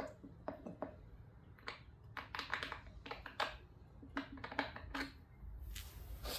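A series of light clicks and clatters, like hand tools and small metal parts being handled, with a brief scraping hiss near the end.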